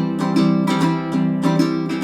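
Acoustic guitar fingerpicked in a steady rhythm, a plucked melody over repeating bass notes, with no singing.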